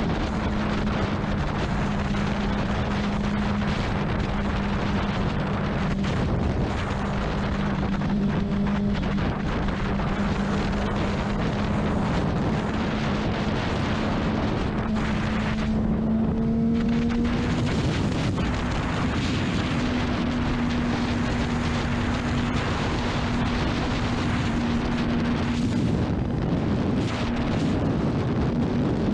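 Honda CBR600RR inline-four engine running steadily at cruising speed, mixed with heavy wind noise. The engine note rises slightly about two-thirds of the way through.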